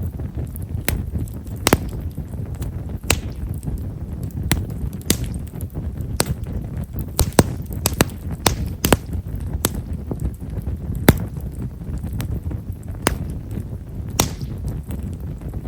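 Wood fire of himeshara (Stewartia monadelpha) firewood crackling: fine, irregular pops, about one or two a second, over the low steady rush of the burning logs.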